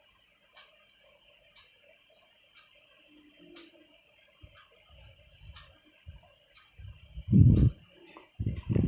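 Computer mouse clicking, single clicks spaced about a second apart, with low muffled thuds near the end; a faint steady hiss runs underneath.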